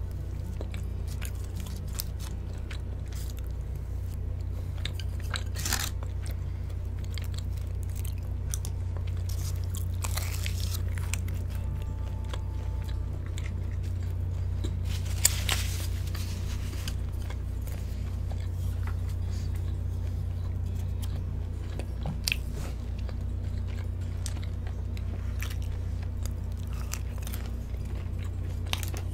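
Close-miked biting and chewing of crispy cheese-topped Korean fried chicken, with a few louder crunches, the loudest about halfway through, over a steady low hum.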